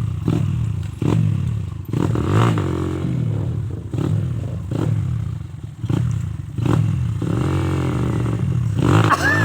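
Small dirt bike's engine revving hard in repeated surges, about one a second, with clattering knocks, as it tries to climb a steep muddy slope; near the end the revs sweep up and down.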